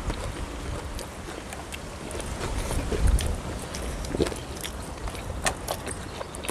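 Eating sounds: chewing and crunching of crispy fried food, heard as scattered short clicks and crackles over a low rumble.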